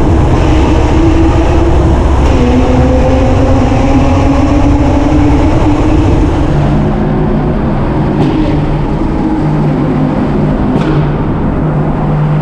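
1995 Ford Probe's 2.5-litre KL-DE V6 running loud through an exhaust the owner calls mildly lacking, its note sagging slowly, then settling to a steadier, lower drone about halfway in. A couple of short sharp pops come in the second half.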